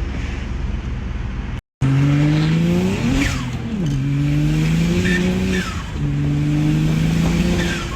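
BMW 135i accelerating hard through the gears: after a brief steady stretch and a cut, the engine note climbs, drops at a gear change about two seconds later, climbs again, drops at another shift and climbs once more. Short falling whistles from the turbo system come at each gear change.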